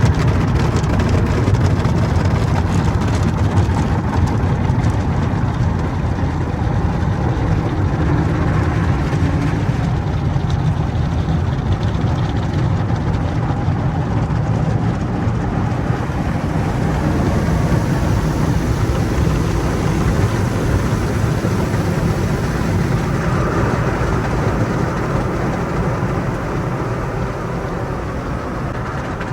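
Car wash tunnel equipment running: a steady low rumble with an even rush of noise over it.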